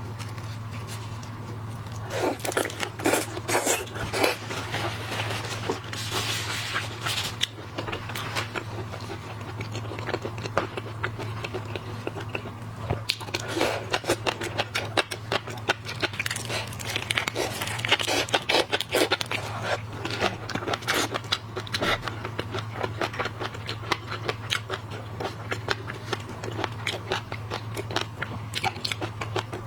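Close-miked eating of shellfish: irregular crunching, cracking and crackling of shrimp and crab shells along with chewing, over a steady low hum.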